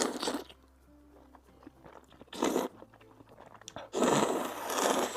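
Close-miked eating sounds of hand-rolled noodles: a short burst at the start, another about two and a half seconds in, and a louder, longer noisy one lasting about a second near the end, over faint background music.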